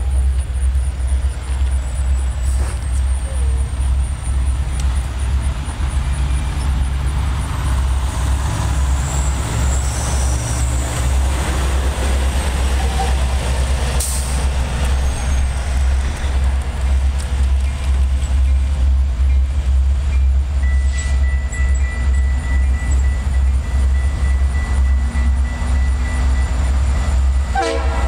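Low, steady rumble of an approaching freight train led by an EMD SD60M diesel locomotive, mixed with wind buffeting the microphone.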